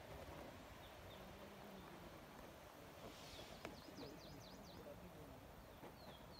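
Faint birdsong in the forest: a few short high chirps, with a quick run of about seven rapid falling chirps around three seconds in, over a quiet outdoor background.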